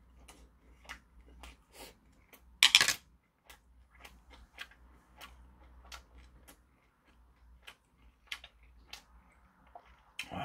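Close-up chewing with a string of small wet mouth clicks and smacks, and one louder breathy rush about three seconds in.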